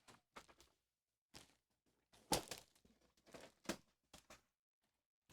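Faint, scattered taps and rustles of hands handling diamond painting kit materials, with a few slightly louder clicks around the middle.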